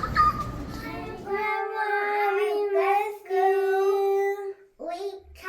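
A child singing, holding long, steady notes. Background noise cuts off about a second and a half in.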